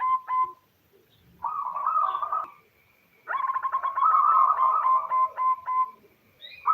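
Female zebra dove giving its fast, staccato cooing call in repeated bouts of quick notes. The longest bout starts about three seconds in and slows into a few spaced notes, and another begins at the very end. It is a female calling to a male.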